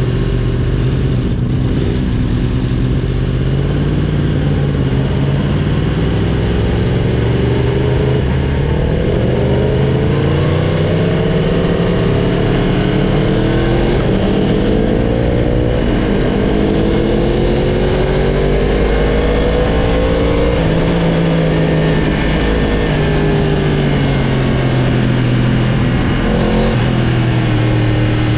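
Sportbike engine heard from on board, running hard the whole time, its pitch climbing slowly under throttle several times and falling back between, with the biggest drop about three quarters of the way through.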